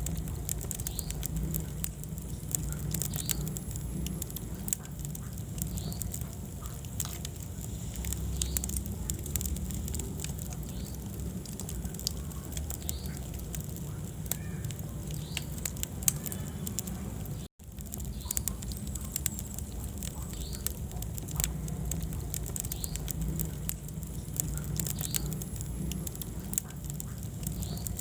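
Wood fire crackling, with frequent irregular snaps and pops over a low, steady rumble of the flames. The sound cuts out for an instant about two-thirds of the way through.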